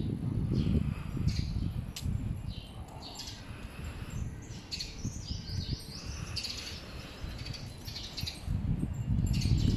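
Small birds chirping in many short, high calls, over a low rumble that swells near the start and again near the end.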